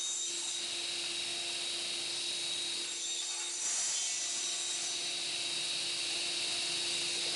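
Table saw running steadily while cutting 18 mm plywood, with a constant hum and a high whine. It gets slightly louder and brighter about three and a half seconds in.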